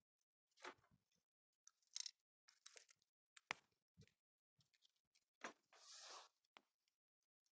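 Faint, scattered crackling and crunching at a campfire, with a few sharper snaps and a short rustling hiss about five and a half seconds in.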